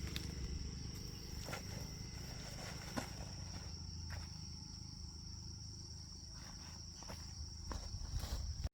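Steady high-pitched insect trill, crickets or similar, over a low rumble, with a few faint clicks.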